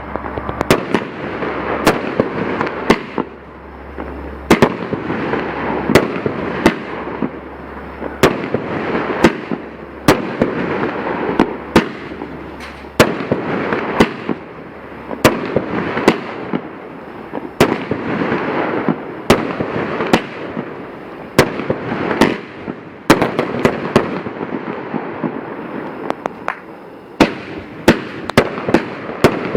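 Fireworks going off: sharp bangs at irregular intervals, often one to two a second, with tighter clusters of reports near the end, over a continuous noisy hiss.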